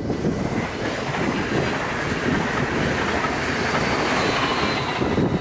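NS DDZ double-deck electric intercity train passing at speed over a level crossing: a loud, steady rush of wheels on the rails and train noise, building about half a second in and holding as the coaches go by.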